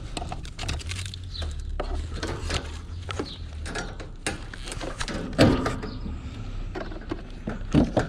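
Scattered knocks and clicks over a low steady hum, with two louder knocks about five and a half seconds in and near the end.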